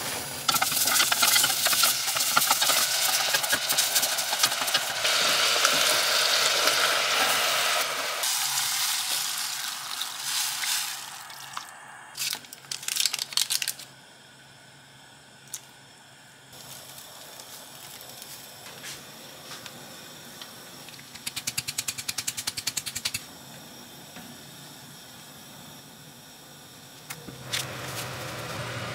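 Vegetables and minced meat sizzling loudly as they are stir-fried in perilla oil in a stainless steel pot. The sizzle fades off about eight seconds in and gives way to a few clinks. Near the end a pot of soup comes to a bubbling boil.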